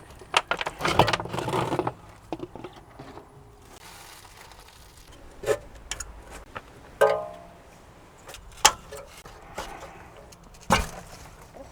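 Metal tools and parts clinking and clanking during hands-on work: a rattling flurry near the start, then scattered sharp knocks, with one ringing metallic clank about seven seconds in.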